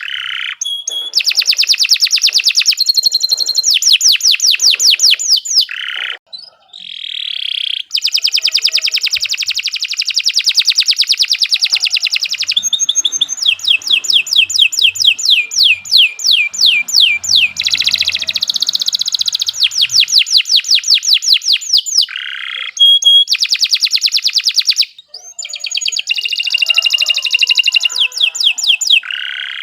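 Domestic canary singing a long, vigorous song of fast repeated trills and rolling notes, broken by two short pauses.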